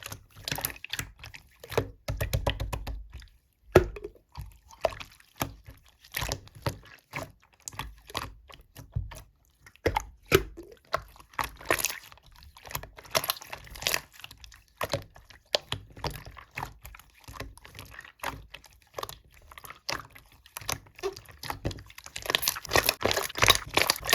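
Slime being pressed, poked and stretched by hand, making a stream of small sticky clicks, pops and squelches that grow denser and quicker near the end.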